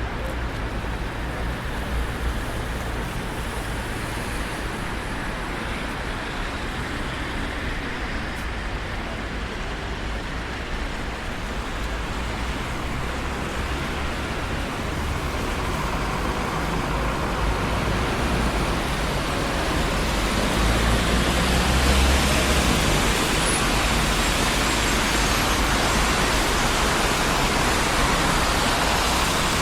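Traffic on a busy city street: a steady wash of tyre and engine noise. It swells over the second half as a vehicle passes close, with a low engine rumble at its loudest point.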